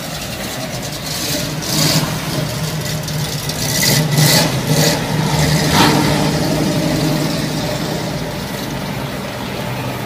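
Car engine running, growing louder in swells about two, four and six seconds in.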